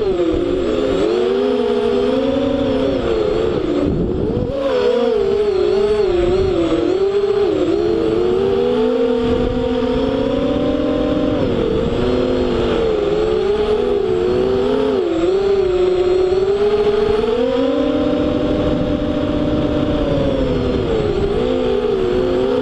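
FPV racing quadcopter's motors and propellers whining, the pitch rising and falling continuously as the throttle changes through the turns.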